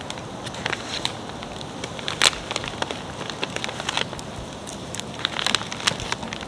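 Wood campfire crackling: irregular sharp pops and snaps over a steady hiss, the loudest pop about two seconds in.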